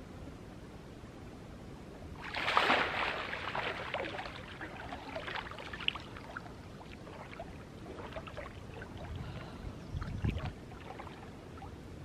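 A person going into a cold river: a splash about two seconds in, then smaller splashes and water dripping and sloshing.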